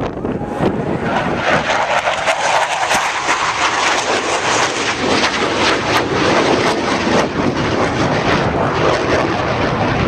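Fixed-wing airplane engine running loud and steady as the aircraft flies, with frequent short crackles through the noise.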